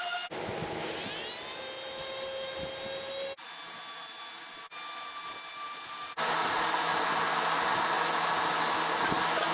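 Power sander running on Bondo body filler over a car's steel header panel, in several short stretches that stop abruptly. It spins up with a rising whine just after the start, and in the last few seconds the sanding is louder and rougher.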